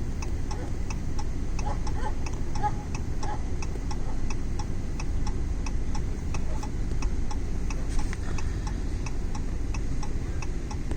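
A car's turn-signal indicator ticking steadily, about two to three ticks a second, over a low steady rumble inside the car.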